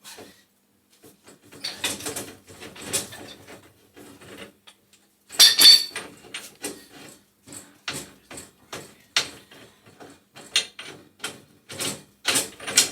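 Wrenches clicking and knocking against metal gas-pipe fittings as a fitting is loosened off a boiler's gas valve: irregular sharp clinks, with a louder clank about five and a half seconds in.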